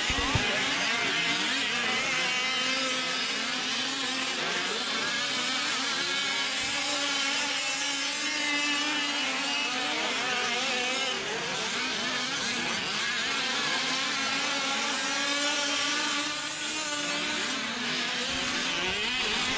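Several 1/5-scale off-road RC trucks' small two-stroke gasoline engines buzzing at once, their pitches rising and falling over one another as they rev on and off the throttle.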